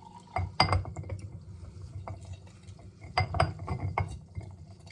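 Orange being squeezed by hand on a citrus juicer over a small glass, with knocks and glass clinks in two bunches, about half a second in and again around three seconds in, as juice splashes out.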